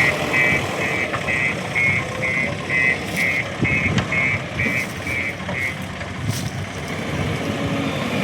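A reversing alarm beeping at an even pace, about two and a half beeps a second, over a machine's engine running steadily. The beeping stops a little past two-thirds of the way through, and the engine runs on.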